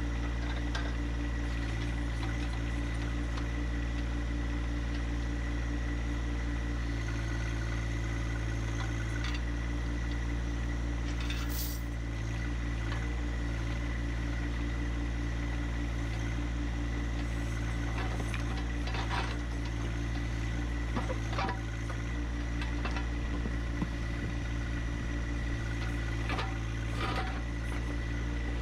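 A John Deere 1025R compact tractor's three-cylinder diesel engine running steadily, its note shifting slightly a few times, with scattered short knocks and clicks in the second half.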